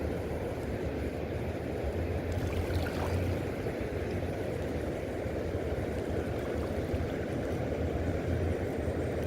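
Steady low rushing of river water below a dam, an even rumble with no breaks.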